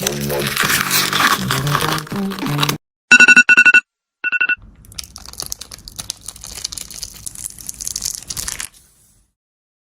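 Music with a crackling noise over it, then a quick run of electronic beeps and one more short beep, followed by a few seconds of crinkling, rustling noise that cuts off about a second before the end.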